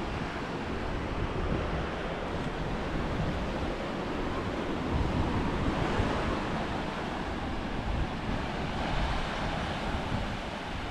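Sea surf washing onto a rocky shore, with wind buffeting the microphone.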